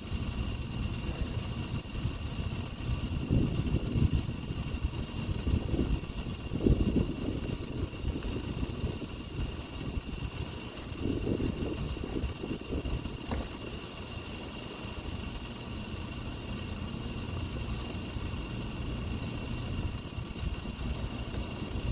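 A vehicle engine idling with a steady low rumble, with a few louder swishing swells over it about three, six and eleven seconds in.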